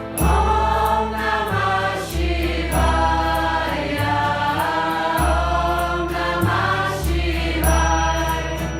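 Devotional mantra chanting sung by a group of voices over music with deep sustained bass notes that shift every second or so.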